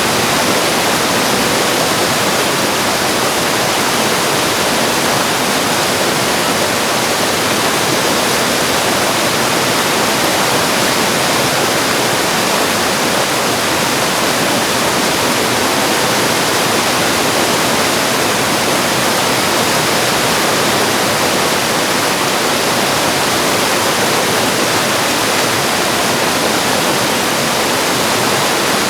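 Mountain valley stream rushing over rocks: a loud, steady, even rush of water with no let-up.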